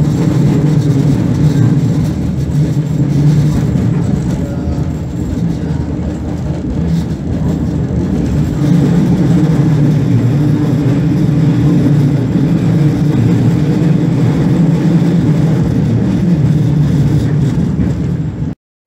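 Steady low rumble of a passenger train running at speed, heard from inside the carriage. It cuts off suddenly just before the end.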